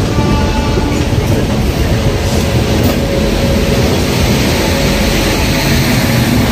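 Shantiniketan Express passenger train running, a steady loud rumble heard on board. A train horn's held note fades out about a second in.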